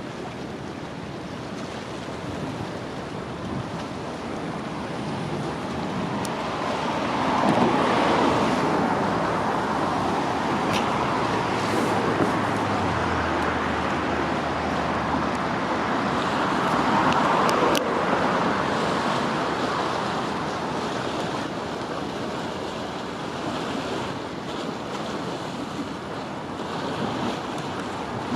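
Steady outdoor rushing noise that swells about a third of the way in and again a little past halfway, with a brief low hum in between.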